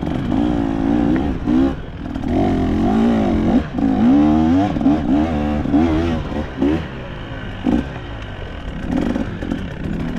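Two-stroke KTM enduro dirt bike engine revving hard under load, the revs surging up and down again and again with quick throttle blips.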